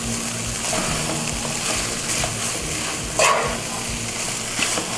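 Shredded chicken frying with onion in a pan, sizzling steadily, while a spoon stirs it; a louder stirring scrape about three seconds in.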